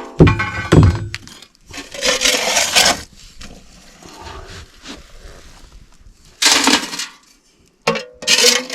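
A narrow metal scoop knocking and scraping out ash inside a stove. There are clanks in the first second or so, then harsh scraping strokes about two seconds in, again after six seconds, and near the end.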